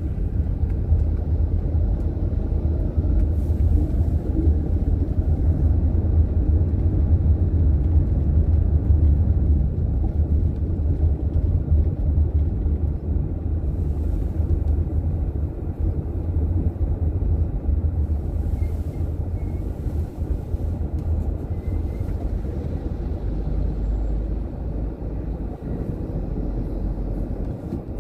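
Car driving on city streets: a steady low rumble of engine and road noise that eases a little in the second half.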